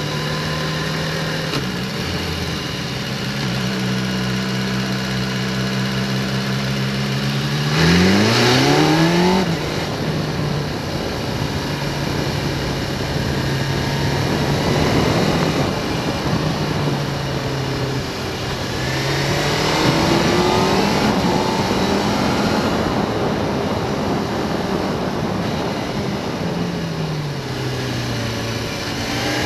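Motorcycle engine running under way over steady wind and road noise. Its pitch shifts several times, rising sharply about eight seconds in as the rider accelerates, and dips and climbs again near the end.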